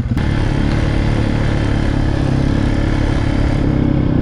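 TGB Blade quad bike's engine pulling away from idle at the very start and then running hard and steady under throttle.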